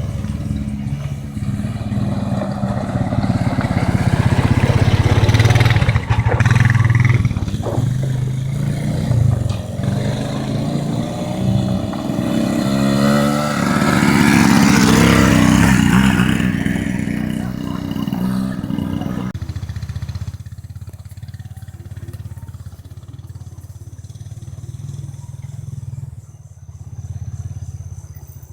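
ATV engine running under load with rises and falls in revs and rushing noise, then settling to a quieter, steady running about two-thirds of the way through.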